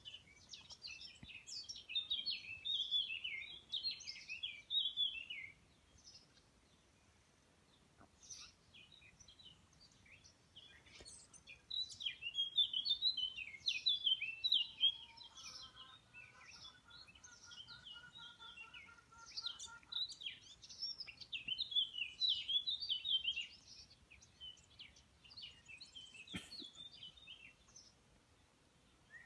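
A songbird singing in three bouts of rapid, high warbling phrases separated by short pauses. A lower, fast-repeating trill joins in the middle.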